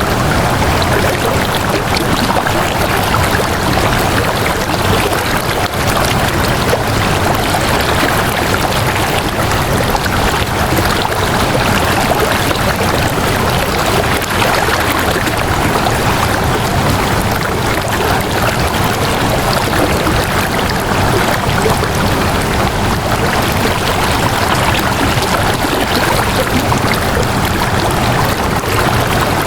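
Flowing water running steadily, an even unbroken rush like a stream.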